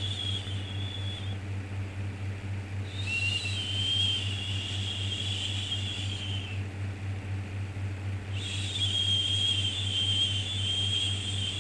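Long, drawn-out "shhh" shushing sounds, each lasting about three and a half seconds with pauses of about two seconds between them, over a steady low hum. This is the repeated shush used to soothe a baby to sleep.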